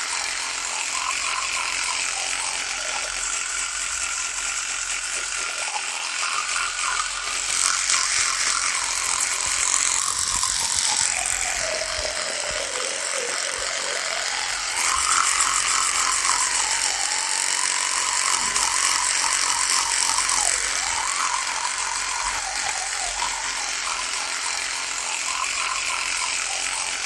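Electric toothbrush running with a continuous buzz whose pitch wavers. About halfway through, the pitch sags well down and then climbs back up, and the buzz gets a little louder for a few seconds just before and just after the dip.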